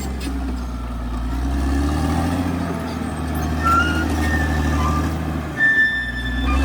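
CAT D6R XL bulldozer's diesel engine running steadily, with a brief dip about two-thirds of the way through. Short high squeals at several pitches come and go over it.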